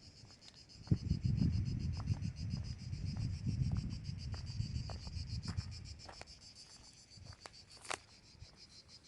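A steady chorus of insects: a fast-pulsing high buzz that keeps on unchanged. Under it there are a low rumble during the first six seconds, scattered sharp ticks, and a louder knock about eight seconds in.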